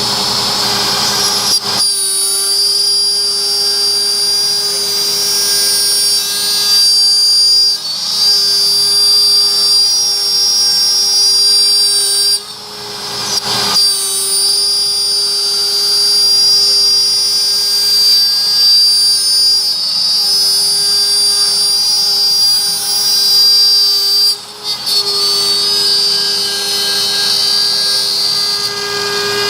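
CNC router spindle running with a steady high whine while the bit cuts wood, with a lower tone that stops and restarts as the machine moves between passes. The sound dips briefly twice, about a third and about four fifths of the way through.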